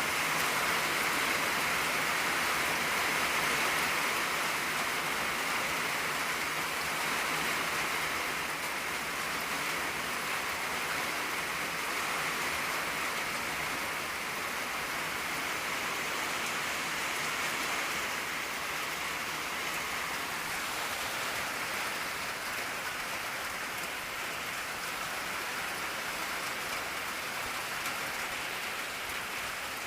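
Steady rain drumming on an old tin roof, an even patter with no breaks.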